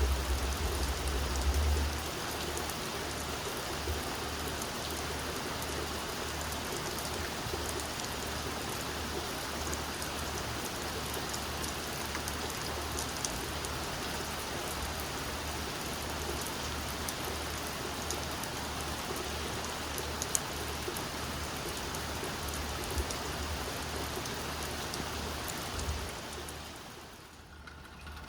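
Steady rain falling, with scattered drops clicking close by and a low rumble in the first couple of seconds. The rain sound fades down about two seconds before the end.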